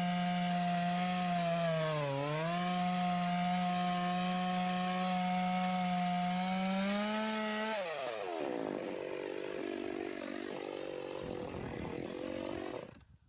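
McCulloch 610 two-stroke chainsaw running at high revs while ripping a log lengthwise in an Alaskan chainsaw mill, its pitch sagging briefly under load about two seconds in. About eight seconds in the revs drop and the engine runs unevenly at a lower speed, then the sound cuts off suddenly near the end.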